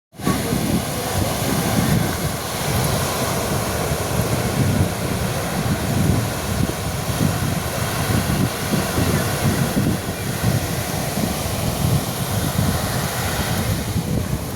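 Sea waves breaking and washing onto a sandy beach: a steady rush of surf with heavy wind rumble on the microphone.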